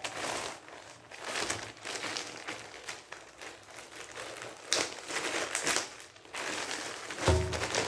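Packaging being crinkled and handled while it is opened by hand, in irregular rustles with a few sharper crackles.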